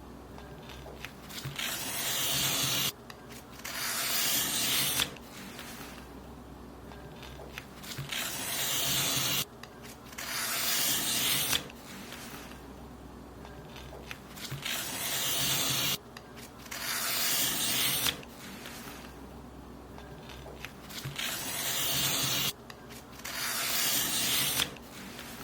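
Paper being cut in a series of long, hissing strokes, about eight of them, each swelling and then stopping abruptly, a few seconds apart.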